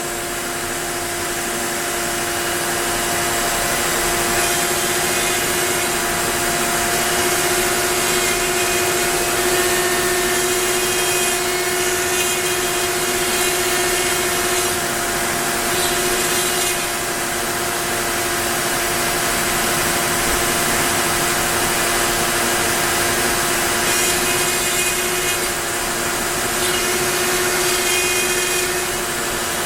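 Onefinity CNC machine's router running with a steady whine while its bit cuts into a wooden board; the cutting noise swells and fades in stretches as the bit moves through the pass.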